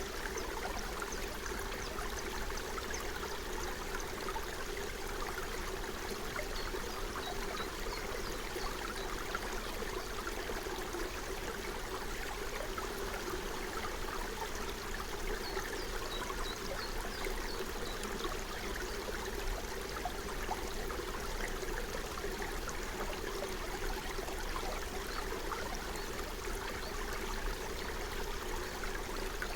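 Small forest stream flowing steadily, with a constant dense patter of small water ticks over an even rush.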